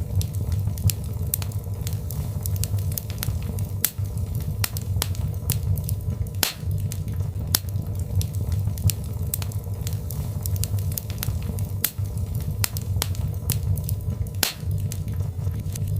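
Wood fire in a fireplace crackling, with frequent sharp, irregular pops over a steady low rumble of the flames.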